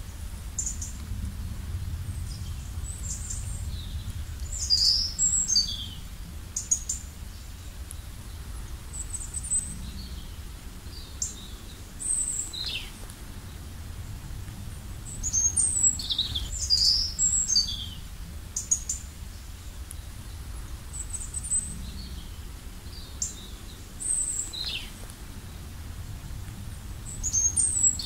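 Songbirds chirping and whistling in short clusters every few seconds, some calls falling in pitch, over a steady low rumble.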